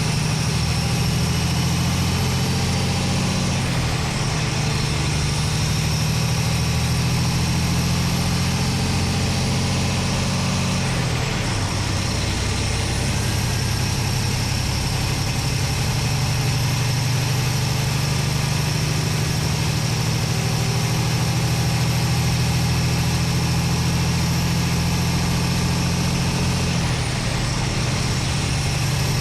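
Paccar MX-13 13-litre diesel engine of a Peterbilt 389 running, heard from inside the engine bay: a steady low drone whose note changes abruptly about 4, 11 and 27 seconds in, with a faint high whine above it.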